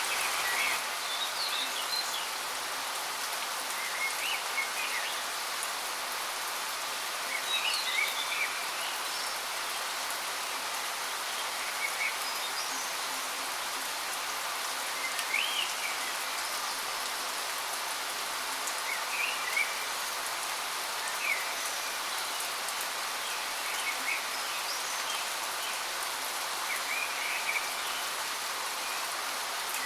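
Waterfall rushing with a steady hiss, while small birds chirp in short calls every second or two.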